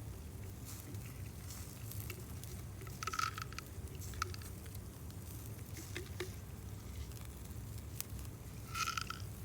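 Campfire crackling with scattered sharp pops over a steady low rumble, with two short hissing sizzles about three seconds in and again near the end, as the meat cooks over the fire.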